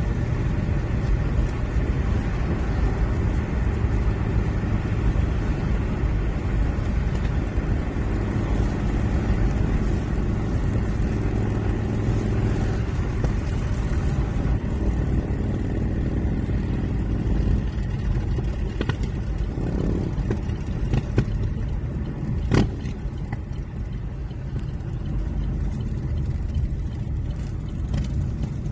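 Motorcycle engine running on the road with steady wind and road rush; the engine note shifts up and down through the middle, and a single sharp click comes about three-quarters of the way through.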